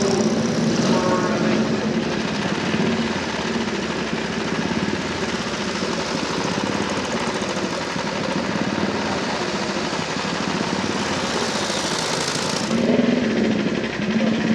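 A classic motorcycle engine running steadily. The sound changes abruptly about two seconds before the end.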